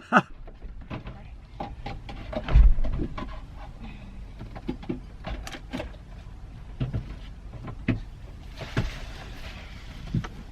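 Scattered clicks, clatters and knocks of objects being handled, with one heavier thump about two and a half seconds in and a soft hiss near the end.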